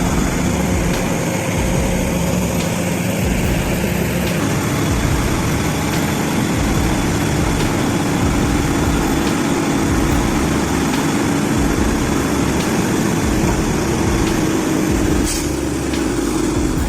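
Heavy truck's diesel engine running steadily, with a constant low hum.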